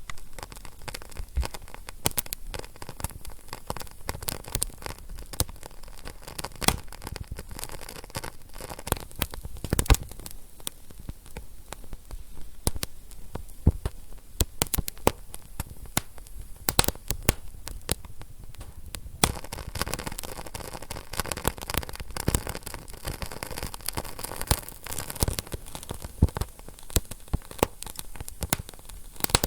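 Wood fire burning in a fireplace: constant soft hiss with many irregular sharp crackles and pops.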